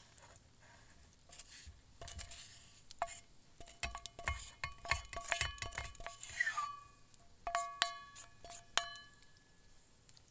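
A metal utensil clinking and scraping against metal cookware, with about a dozen quick ringing taps, a short squeaky scrape a little after the middle, and a few more ringing taps near the end.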